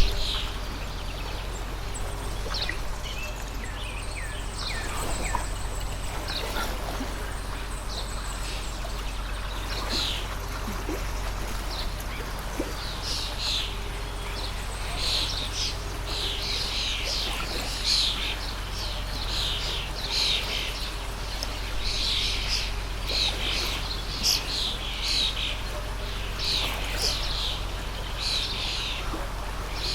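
Small birds chirping in quick, short falling notes over the steady rush of a water stream; the chirping grows busier about a third of the way in.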